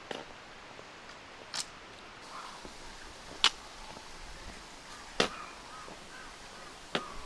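A hiker's steps on stone: a sharp tap on stone about every second and three quarters, at a slow, even climbing pace.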